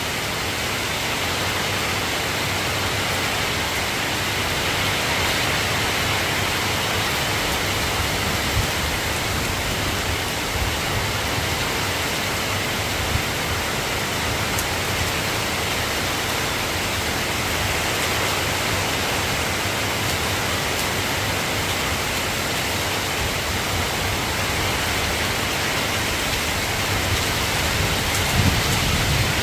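Steady rain falling, a dense even hiss with faint scattered drop ticks and a soft low rumble.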